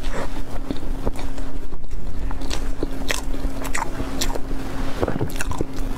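Close-miked eating: a person biting and chewing soft yellow food, with many sharp mouth clicks and smacks. A steady low hum runs underneath.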